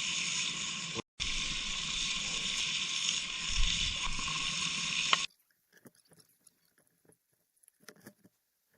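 Steady hissing noise, briefly broken about a second in, then cut off abruptly about five seconds in, leaving near silence with a few faint clicks.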